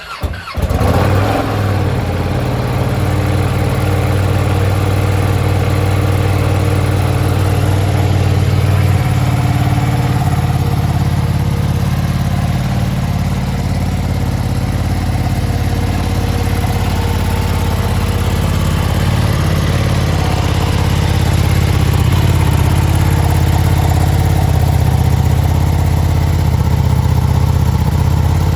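Ducati Streetfighter V2's 955 cc Superquadro V-twin cold-starting: the starter cranks briefly, the engine catches within the first second and settles into a steady, even idle.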